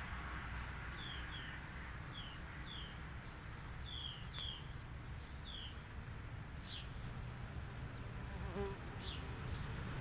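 A small bird chirping: a series of short, high chirps that each fall in pitch, often in quick pairs, spaced irregularly over steady background noise.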